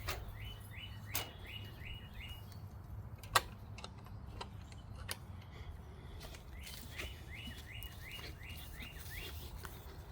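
A bird calling two runs of short, repeated high notes, about three a second, with a pause between the runs. A few sharp clicks sound between them; the loudest comes about three seconds in.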